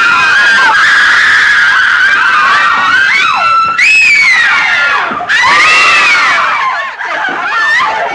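A woman screaming: long, shrill, high-pitched screams that waver and bend in pitch, breaking briefly about four and five seconds in and fading out at the end.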